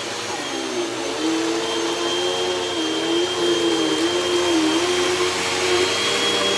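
Hoover Rewind upright vacuum cleaner running on carpet during a shredded-paper pickup test, a steady motor drone with a high whine. The pitch dips briefly now and then, and it grows a little louder about a second in.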